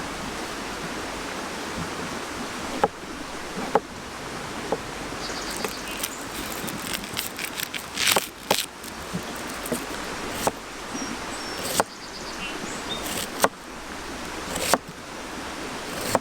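Steady outdoor hiss with about ten sharp clicks and knocks scattered through it, from a burning campfire and the handling of a camp pan and food beside it.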